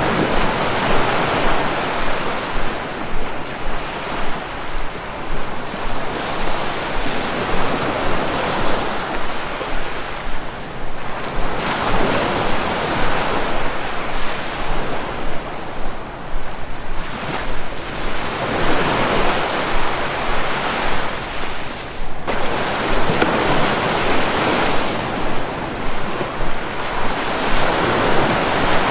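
Sea waves washing onto the shore, each surge swelling and drawing back every few seconds, over a steady rush of surf.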